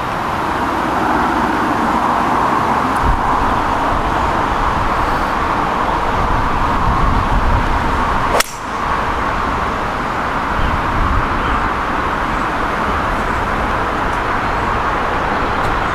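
Strong wind blowing across the microphone: a steady, loud rush with low buffeting rumble. A single sharp click about halfway through.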